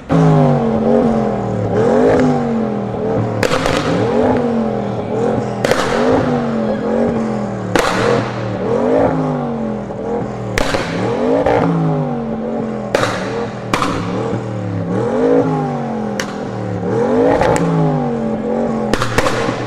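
Car engine revved in quick, repeated blips, about one a second, each one rising in pitch and falling back. Sharp exhaust pops and bangs come every few seconds.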